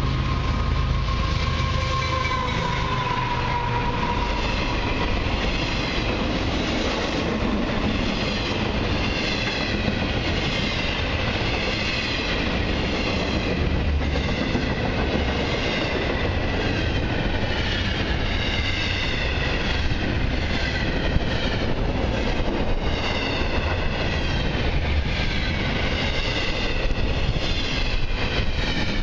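Intermodal freight train passing close at speed. The lead locomotive goes by in the first few seconds with a tone that falls in pitch, then the container well cars follow with a steady rumble, regular clickety-clack of wheels over rail joints, and a wavering high-pitched wheel noise.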